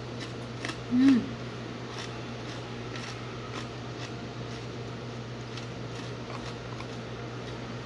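Eating sounds: faint scattered clicks of utensils and chewing over a steady low hum, with one short voiced sound about a second in.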